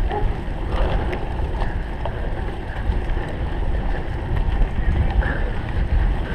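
Wind buffeting the microphone with a low rumble, and scattered clicks and rattles from a cyclocross bike ridden over rough ground.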